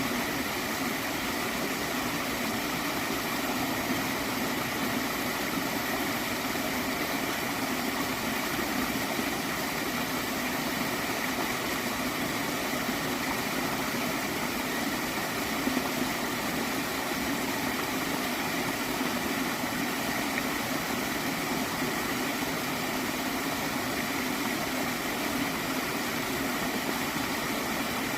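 Gently flowing stream of water gurgling, a steady, unbroken sound.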